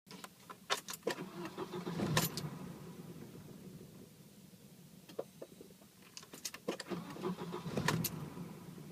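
Ignition key turned twice in a Volvo 760: each time there are clicks and the starter cranks the engine for about two seconds, but the engine does not catch, a no-start.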